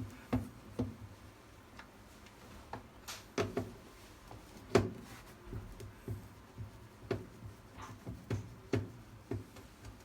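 A series of irregular light knocks and clicks, one or two a second, the sharpest about halfway through.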